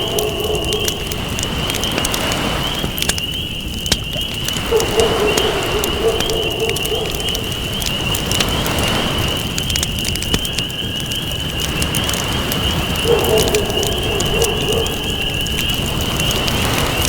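Campfire crackling and popping over a steady rushing noise, under a constant high thin whine. A low call sounds three times: at the start, about five seconds in, and about thirteen seconds in.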